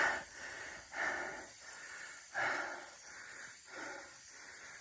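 A person breathing heavily close to the microphone, about one breath every second and a quarter, out of breath after a long uphill hike.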